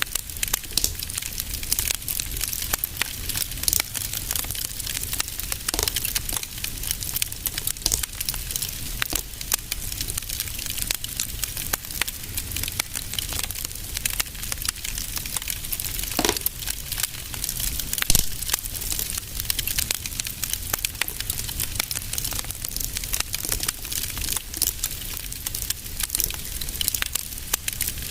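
Fireplace fire crackling steadily: a dense run of small crackles with a few louder pops, the strongest about two-thirds of the way through.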